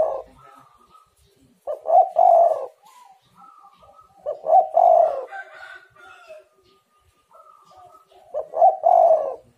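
Spotted dove cooing: three loud, low, multi-note coo phrases, about three seconds apart, with fainter higher calls between them.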